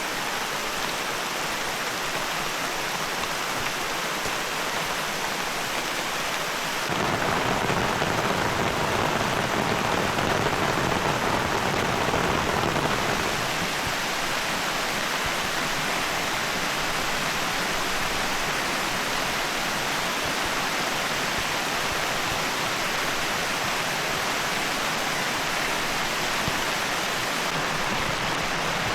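Heavy rain falling steadily. It turns abruptly louder and fuller about seven seconds in, then eases back about six seconds later.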